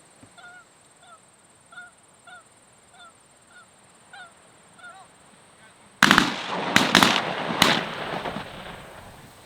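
Goose honks repeating about twice a second, then a sudden volley of four shotgun blasts within about a second and a half, beginning about six seconds in, with a noisy tail that fades over the next couple of seconds.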